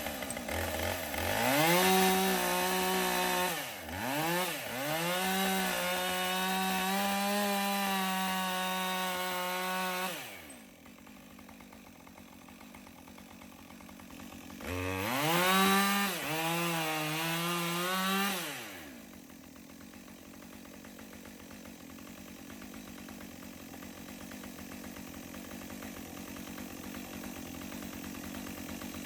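Husqvarna two-stroke chainsaw run up to high revs in two bursts, the first about nine seconds long with a brief dip in speed, the second about four seconds, each falling back to a quieter, steady running sound.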